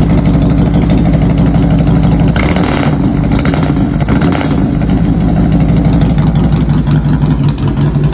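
Harley-Davidson Fat Boy's twin-cam V-twin, bored out to 98 cubic inches, running at idle with a steady loose pulse. There is a brief throttle blip about two and a half seconds in.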